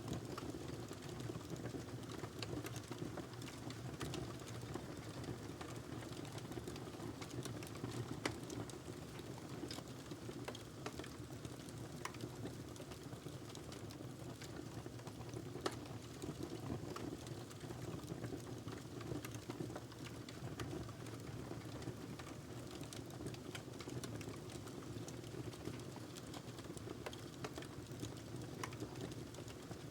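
Wood fire in a fireplace crackling: frequent scattered sharp pops and snaps over a steady low rumble of the burning fire.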